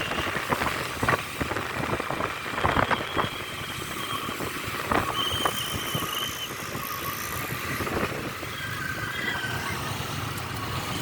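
Dump truck engine running, with irregular clattering knocks over a steady rumble.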